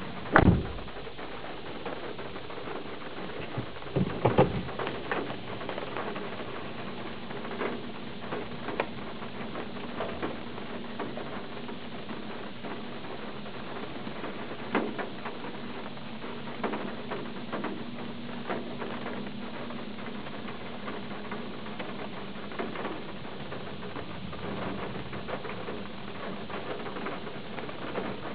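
Raindrops tapping irregularly on glass during a thunderstorm, with two louder thumps, one at the start and one about four seconds in.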